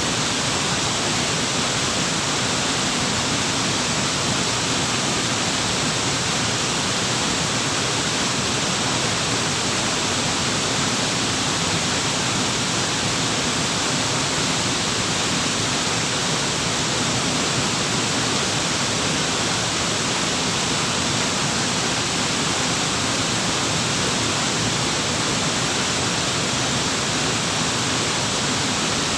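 Waterfall pouring, a loud, steady rush of falling water that does not change.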